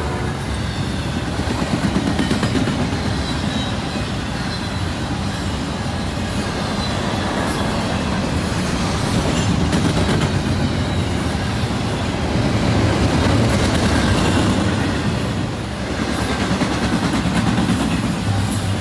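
Double-stack intermodal container cars of a freight train rolling past: a steady rumble of wheels on rail with clickety-clack, swelling and easing as the cars go by.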